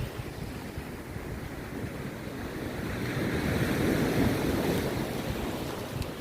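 Rough sea surf breaking on a beach, a wave rushing in and swelling to a peak about halfway through, then easing off. Wind rumbles on the microphone underneath.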